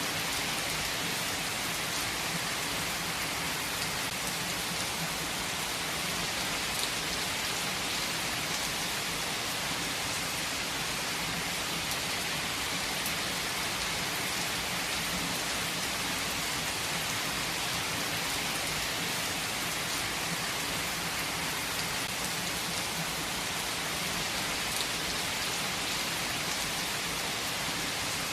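Heavy rain falling steadily, a constant hiss of rain on surfaces with scattered individual drop ticks.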